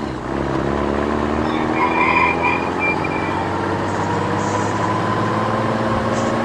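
Vehicle engine running steadily, its pitch creeping slowly upward.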